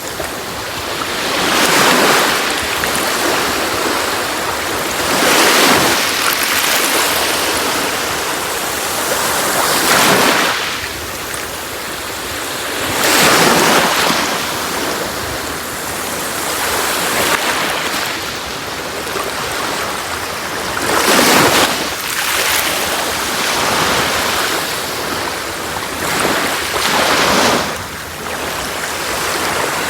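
Sea waves breaking on a beach: surf washing in and out, with a fresh wave swelling up and breaking every three to four seconds.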